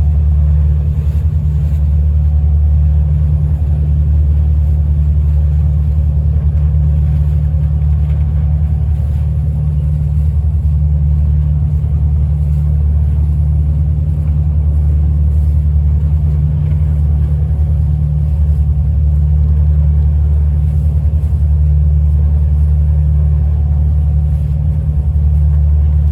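Tour boat's engine running at a steady speed, a loud, even low drone.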